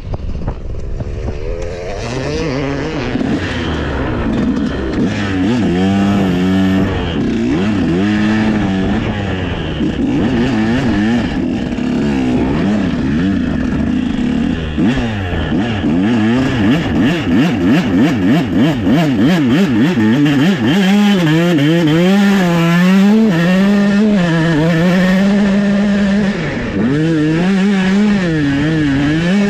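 Dirt bike engine running hard, its pitch repeatedly rising and falling as the throttle is opened and closed; in the second half it holds a steadier high note with brief dips.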